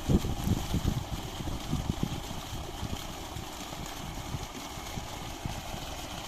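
Solar-powered water pump set running, with water gushing and an uneven low rumble.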